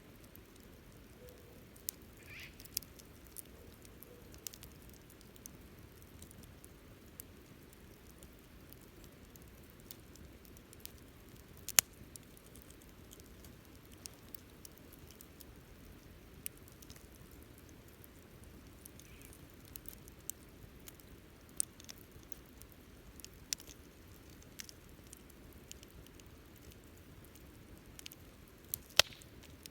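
Wood campfire crackling: scattered sharp pops and snaps at uneven intervals, with a louder snap about twelve seconds in and another near the end, over a low steady hiss of the burning fire.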